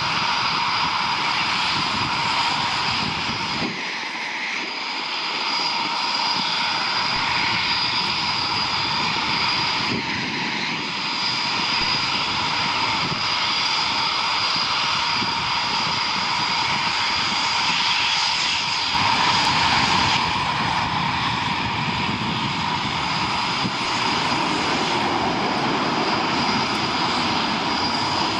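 Military jet aircraft engines running continuously, a loud rushing noise with a steady high whine over it, swelling briefly about two-thirds of the way through.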